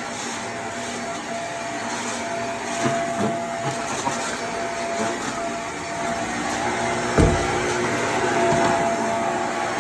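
Vacuum cleaner running with a steady whine. There is a sharp thump about seven seconds in.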